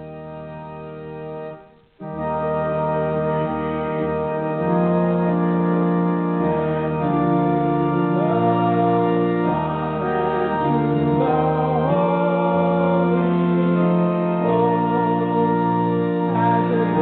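Church organ playing sustained chords. A held chord breaks off about two seconds in, and the organ comes back louder and fuller, with a moving melody over a shifting bass line.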